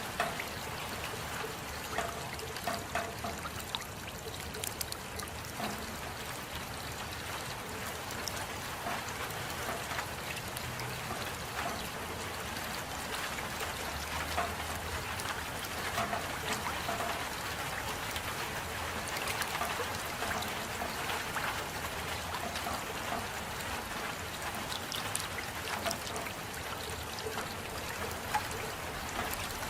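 Steady rain with water trickling, and scattered individual drops ticking on top.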